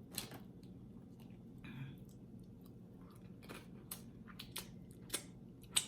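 A person chewing food close to the microphone, with a handful of short crisp crackles, the sharpest near the end.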